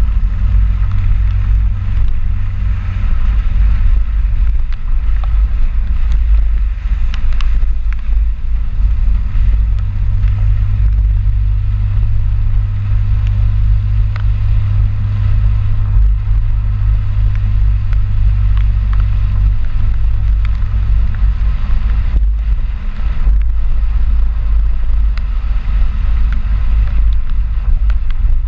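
Ford 4x4 pickup truck driving, a loud, steady low rumble of engine and road noise.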